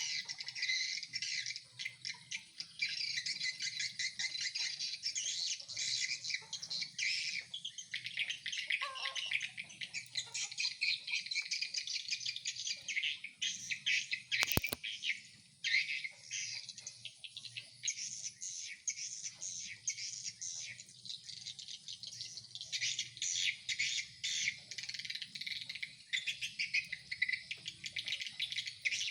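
Swiftlets twittering: a dense, continuous high chirping chatter of swiftlet lure calls (call and roost sounds) and the swiftlets answering them. There is one sharp click about halfway through.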